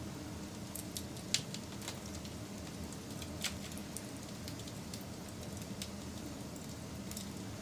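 Wood fire crackling: a steady low rustle of burning with scattered sharp pops, the loudest about a second and a half in and another near three and a half seconds.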